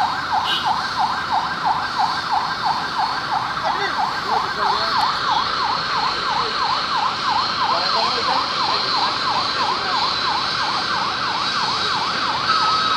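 Emergency vehicle siren in a fast yelp, its pitch sweeping up and down about five times a second, with a short steady tone joining near the end.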